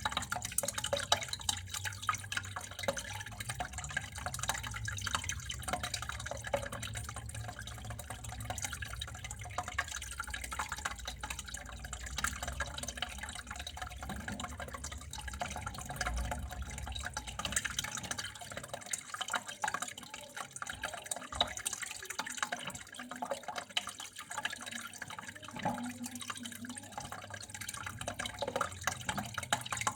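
Water running in a continuous trickling stream, with many small drips and splashes. A low rumble underneath drops away a little past halfway.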